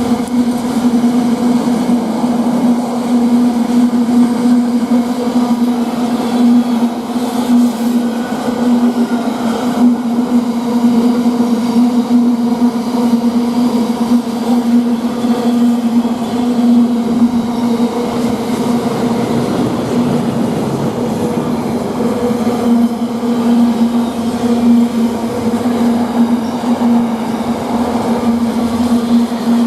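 Freight train hauled by a GBRf Class 66 diesel locomotive going through the station: a loud continuous rumble of rolling wagons under a steady low hum.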